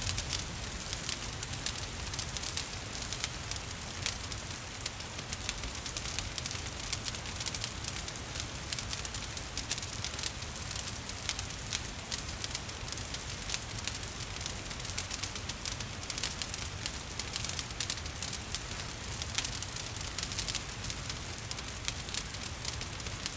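Wood fire crackling and popping in a fireplace, with many small irregular snaps over a steady hiss of rain.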